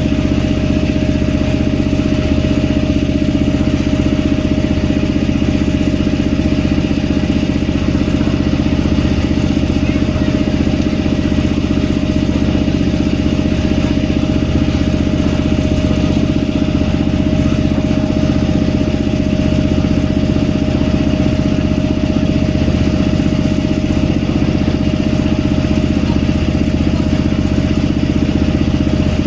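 Boat engine running at a steady, unchanging speed, a loud even drone with no revving.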